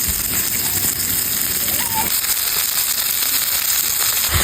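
Meat-wrapped rice balls grilling over a wood campfire: steady sizzling and crackling. A brief high whistle-like tone comes just before two seconds in.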